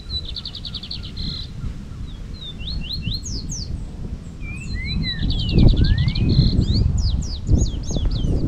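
Several birds singing: fast trilled phrases and quick slurred whistles, sometimes rising and sometimes falling, twice near the start and again from about halfway in. Under them runs a louder, irregular low rumble.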